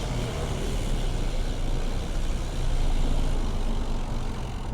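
Road traffic: motor vehicle engines running close by in slow, jammed traffic, a steady low hum under a wash of road noise that swells a little midway.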